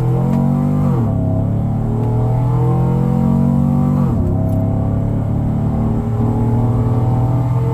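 Cammed Chevy Silverado's engine and exhaust pulling under acceleration, its pitch climbing and then dropping sharply with an upshift about a second in and another about four seconds in, then running steadily at cruise.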